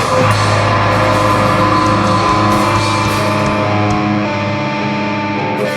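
Rock band playing live: distorted electric guitar chords ringing out over a sustained low note, without drums.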